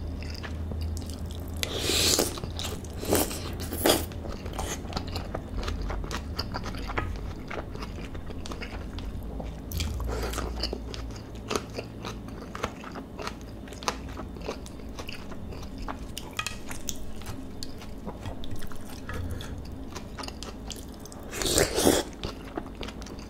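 Close-miked eating sounds of a person chewing and biting a mouthful of marinated beef bulgogi with vegetables: wet clicks and smacks throughout, with a few louder bursts about two, four, ten and twenty-two seconds in.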